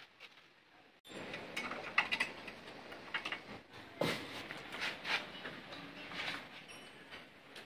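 Metal hand tools and engine parts clicking and clinking in scattered light knocks, as on a motorcycle engine being worked on. Near silence for about the first second, then the sounds begin abruptly.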